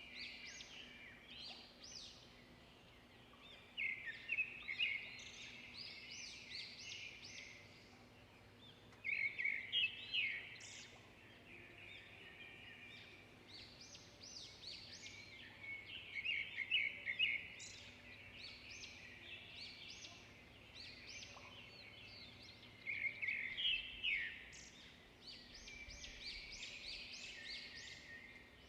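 Songbirds chirping and singing, a steady chorus of short high calls with louder bursts of rapid song every six or seven seconds.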